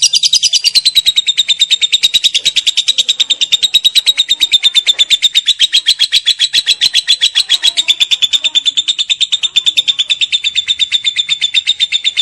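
Lovebird's long 'ngekek' call: a fast, shrill chattering run of sharp notes, roughly ten a second, going on without a break.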